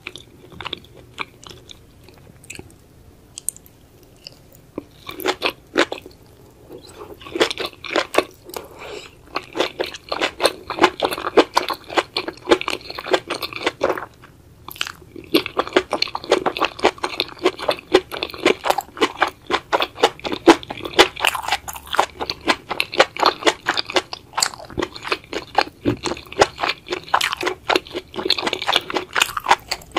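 Close-miked chewing of spicy sauced octopus and enoki mushrooms. It starts with a few soft mouth clicks, becomes a dense run of chewing from about seven seconds in, pauses briefly around halfway, then continues.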